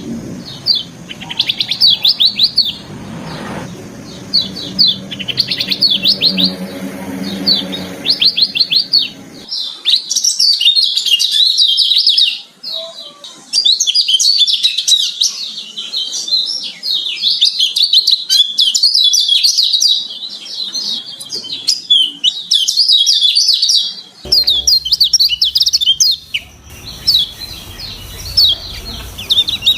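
Kecial kuning (yellow white-eye) singing a fast, varied song of high chirps and trills, in short phrases for the first few seconds and then almost without a break from about ten seconds in. A low background hum runs under the song at the start and again near the end.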